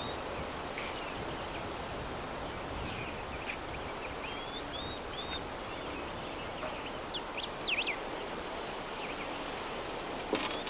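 Soft, steady breeze with distant small birds chirping now and then, a brief burst of louder chirps a little past halfway, and a light click near the end.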